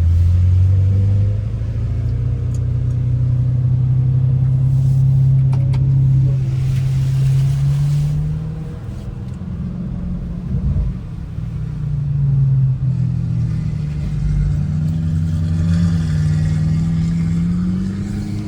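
Car engine running under way, a steady low drone that shifts pitch as it changes speed and climbs near the end as the car accelerates.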